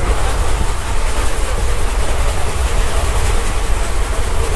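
Gujarat Superfast Express passenger coach in motion, heard from inside: a loud, steady rumble of the running train with a rushing noise over it.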